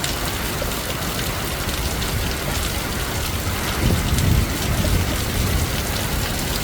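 Heavy wind-driven rain as a steady hiss, with a low rumble swelling briefly about four seconds in.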